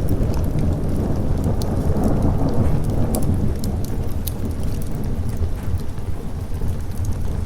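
Thunder rolling low over steady rain, swelling over the first few seconds and then fading into the rain, with the scattered sharp crackles of a wood fire on top.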